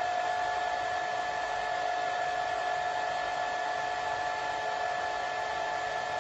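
Hair dryer running steadily: an even rushing of air with a constant whine from its motor and fan.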